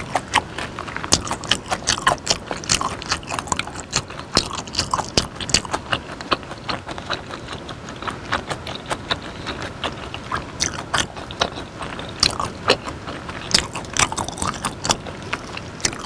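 Close-miked chewing of raw beef dipped in chili sauce: a dense, irregular run of wet mouth clicks and smacks.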